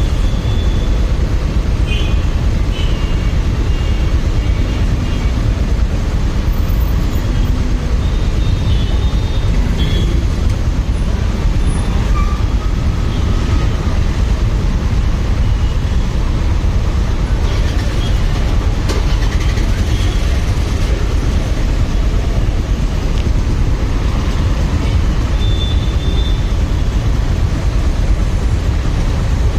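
Steady, loud wind rumble and road noise on a riding motorcyclist's microphone, with motorcycle and traffic noise under it and a few brief high tones now and then.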